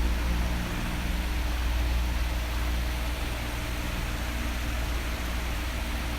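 Electric fan blowing: a steady rush of air over a low motor hum.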